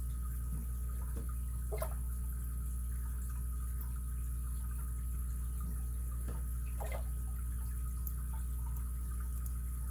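Faint, scattered clicks of a lock pick working the pins of an ABUS 83CS 55 padlock, two of them a little clearer about 2 s and 7 s in, over a steady low electrical hum.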